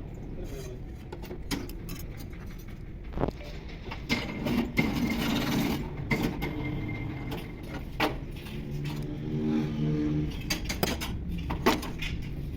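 Scattered sharp metallic clinks and knocks of tools and parts being handled, over a steady low engine hum.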